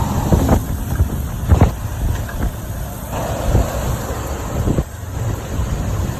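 Hurricane wind gusting hard across the microphone: a continuous low rumble that swells and eases, with several sharp knocks mixed in.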